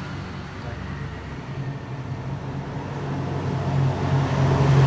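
Road traffic: a motor vehicle's engine running with a steady low hum that grows louder near the end.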